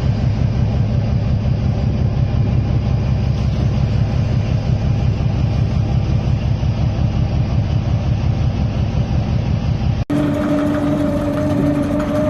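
A fishing boat's diesel engine running with a steady low throb. About ten seconds in, the sound cuts abruptly to a steady machine hum held at two pitches.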